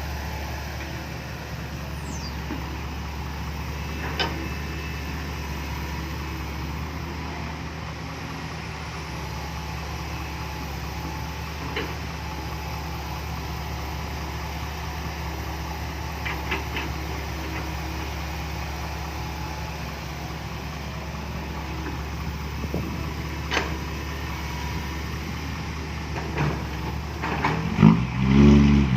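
Diesel engines idling steadily, with a few short clanks from the loading work. Near the end a diesel engine revs up loudly with rising pitch.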